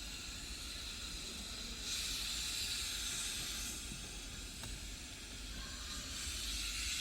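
A steady hiss that grows louder for a couple of seconds, from about two seconds in to about four seconds in.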